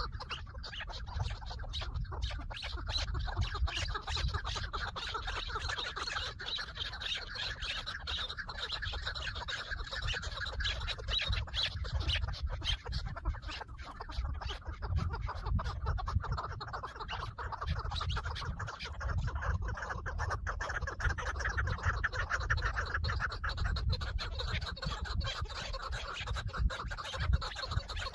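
Chukar partridges calling in a rapid, continuous chuckling chatter, over a steady low rumble.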